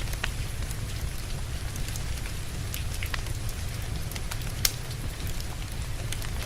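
Steady rain with a crackling wood fire: a continuous rushing hiss and low rumble, with scattered sharp pops from the burning logs, one louder pop about two-thirds of the way through.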